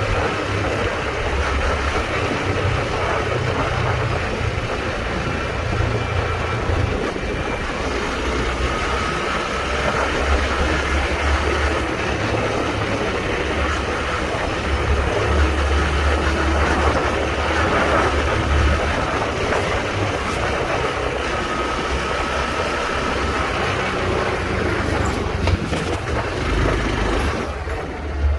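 Honda Trail 125's single-cylinder engine running while riding, under a heavy rush of wind on the microphone. The wind rush thins out near the end.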